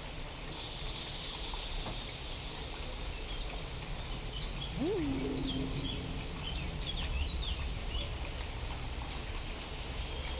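Steady rain with a low rumble underneath. A flurry of short, high chirps comes through in the middle, and about halfway a low tone swoops up and back down, then holds briefly.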